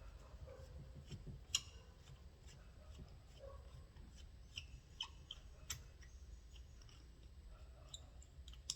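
Faint, scattered metallic clicks and ticks of a hand tool backing a small screw out of a car starter motor's end cap, with a few sharper clicks among them.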